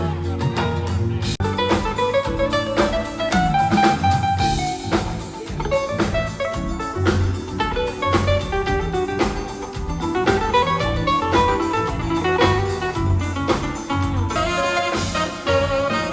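Live smooth jazz band playing: a lead melody with sliding, bending notes over drum kit and a pulsing bass line, with guitar in the mix.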